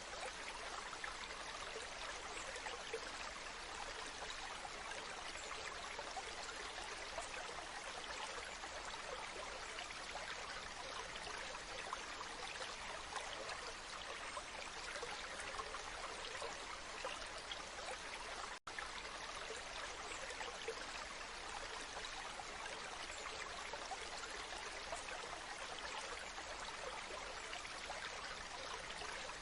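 Waterfall: water falling and splashing in a steady, even rush. The sound drops out for an instant about two-thirds of the way through.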